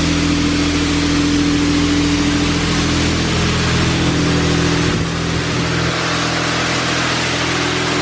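Washworld High Velocity touchless car wash spraying water over the car, heard from inside the car: a steady loud hiss with a low hum underneath, which eases slightly about five seconds in.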